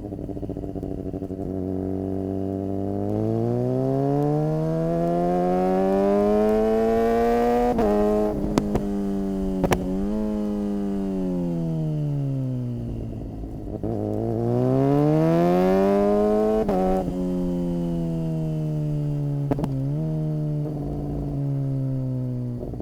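Suzuki GSX-R600's inline-four engine under way: the revs climb, are cut for an instant with sharp cracks at each quickshifter upshift, then wind down. They climb again about two-thirds of the way through and settle into a steady cruise.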